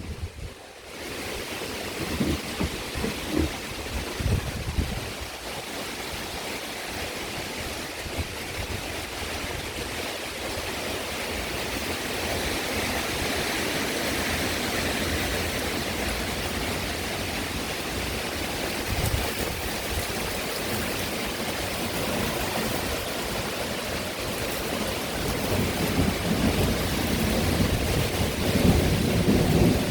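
Heavy rain pouring steadily in a thunderstorm, growing somewhat heavier around the middle, with low rumbles of thunder a few seconds in and again near the end.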